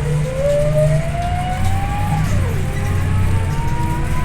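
Scania OmniLink I city bus accelerating, a low engine drone under a rising drivetrain whine that drops sharply about two seconds in at a gear change and then starts climbing again.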